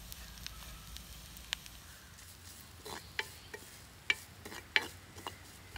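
Grated coconut, cashews, garlic and poppy seeds frying in oil with a faint sizzle, stirred with sharp scraping clicks that come more often in the second half. The mixture is being roasted until it turns reddish-brown for grinding into masala.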